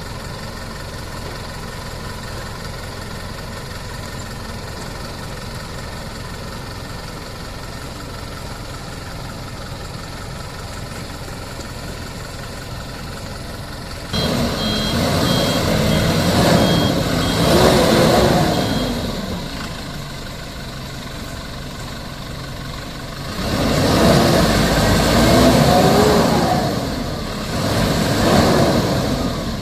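Mitsubishi Fuso Canter dump truck's diesel engine idling steadily, then revving up and down hard twice in long surges as the sand-laden truck strains to pull out of the soft ground it has sunk into. A reversing beeper sounds in short, evenly spaced beeps during the first surge.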